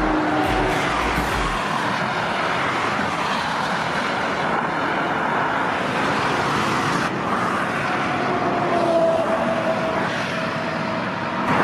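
Heavy trucks driving on a road: a steady mix of engine and tyre noise.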